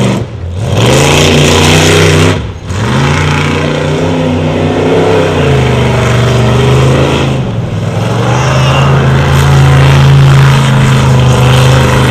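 Off-road 4x4 race truck engine running hard at high revs. It cuts out briefly twice near the start, climbing back up in pitch each time, then holds steady at high revs.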